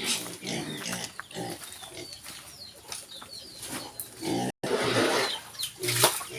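Pigs calling in short, repeated bursts, with faint high chirps above them. The sound cuts out abruptly about two-thirds of the way through, then resumes.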